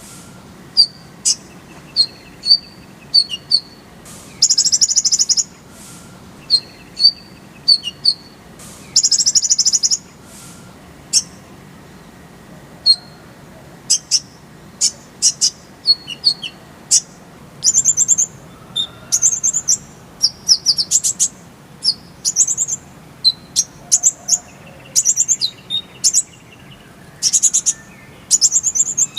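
Kolibri ninja (a sunbird) singing: bursts of a fast, very high rattling trill about a second long every few seconds, with short sharp chirps between them. Later the song turns into a busier run of quick varied notes.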